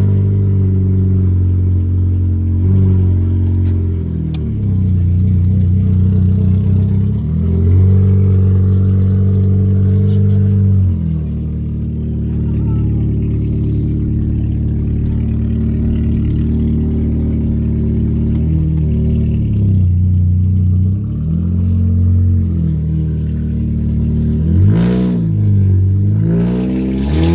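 2003 Oldsmobile Alero's engine running with no catalytic converter or muffler, only the headers: a loud exhaust note that sounds almost like a straight pipe, rising and falling in pitch several times as the car accelerates and eases off on the road.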